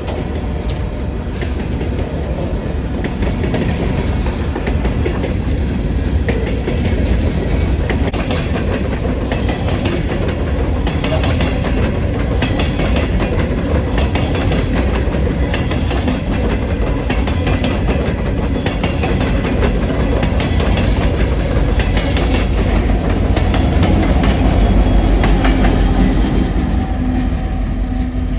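A freight train rolling past at close range: a steady rumble with repeated wheel clicks over the rail joints, growing slightly louder near the end.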